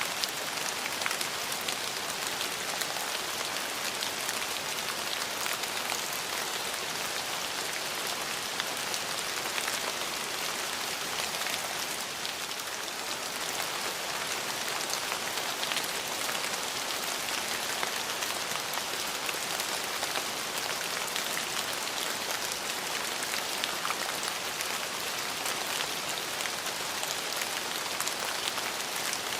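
Steady rain, a dense even hiss of falling rain with many fine drop ticks, dipping slightly about midway.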